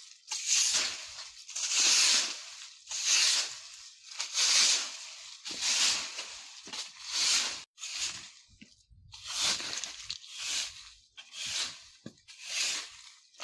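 A broom sweeping dry fallen leaves on the ground: a steady run of rustling swishes, about one stroke every second or so, with a softer pause about eight seconds in.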